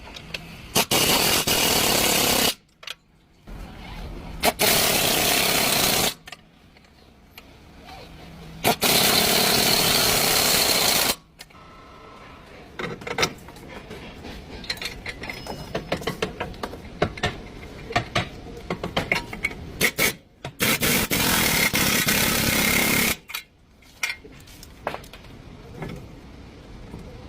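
Impact wrench running in four bursts of about two seconds each, with metal tool clinks and clanks in between.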